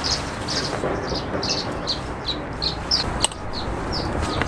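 A bird singing a steady run of short, high, repeated notes, two or three a second. A single sharp click sounds a little after three seconds in.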